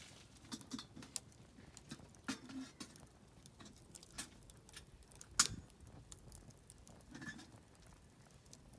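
Oak firewood crackling in a campfire: scattered, irregular pops and snaps, with one sharp louder pop about five and a half seconds in.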